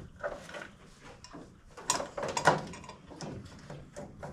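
Scattered clicks and knocks of metal and plastic parts being handled and pushed into place during engine-bay work, loudest about two seconds in.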